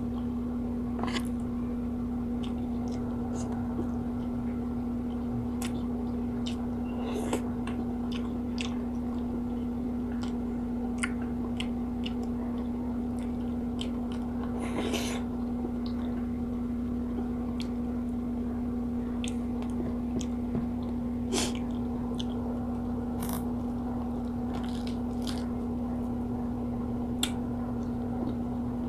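Close-miked eating: chewing and mouth smacks as rice, fried tilapia and vegetables in coconut milk are eaten, with many short sharp clicks scattered through. A steady low hum runs underneath.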